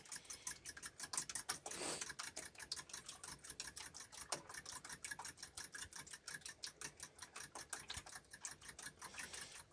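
Eggs being whisked in a bowl for scrambled egg: a quick, even run of clicking strokes of the utensil against the bowl, about seven a second, stopping at the end.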